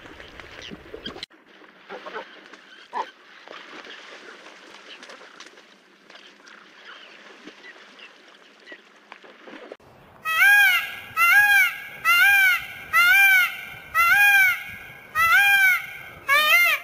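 Faint outdoor ambience with a few soft chirps. About ten seconds in it cuts abruptly to an animal's loud, repeated calls, a little more than one a second, each rising and falling in pitch, coming quicker near the end.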